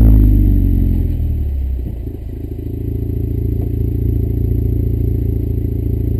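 Holden VE Commodore's 3.0-litre SIDI V6, breathing through stainless extractors, 100-cell cats and a stainless cat-back exhaust, its revs falling away after a blip and settling to a steady idle about two seconds in.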